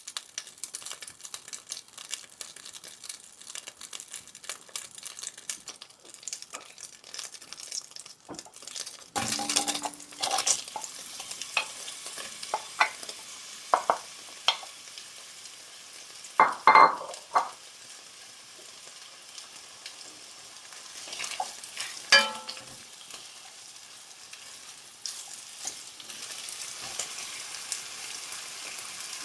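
Food sizzling as it fries in a pan while being stirred, with many small scraping clicks and a few louder clatters about a third of the way in, past the middle and again a little later.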